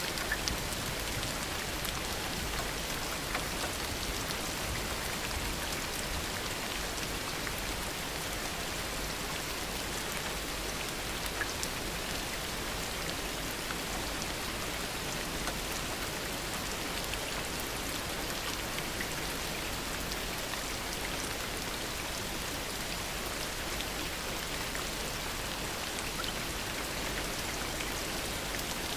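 Steady heavy rain falling, a constant hiss with scattered individual drop ticks; no thunder is heard.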